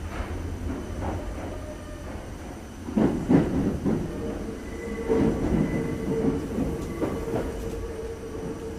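Kintetsu 2430 series train running, heard from inside the car: steady rumble with wheels knocking over rail joints and points, loudest in two clusters about three and five seconds in, and a steady wheel squeal setting in about four seconds in.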